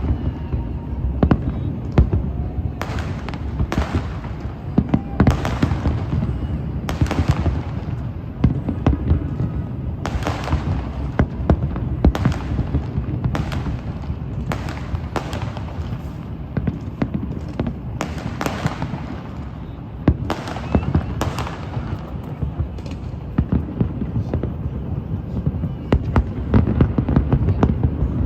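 Fireworks going off repeatedly, sharp cracks and booms in quick succession over a steady low rumble.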